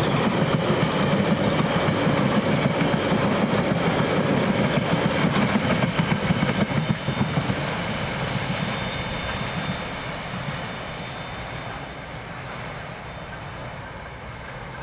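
Empty container flat wagons at the tail of a freight train rolling past on the rails, loud and noisy, then fading away once the last wagon has passed about seven seconds in.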